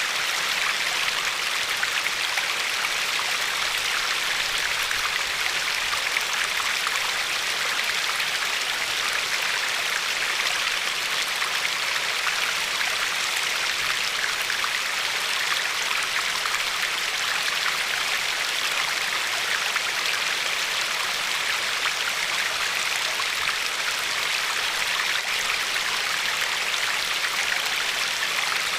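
A river flowing steadily over a pebbly shore: a continuous, even rush of water with fine splashing and lapping, strongest in the upper middle of the range.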